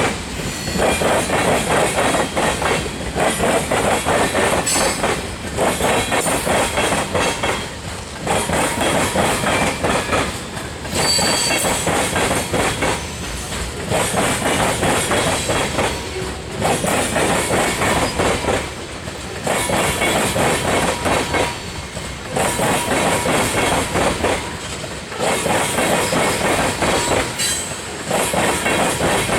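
Freight cars rolling past close by, with a steady clatter of wheels over the rails that dips briefly at each gap between cars, about every 2.7 seconds. Faint wheel squeal rings over the clatter.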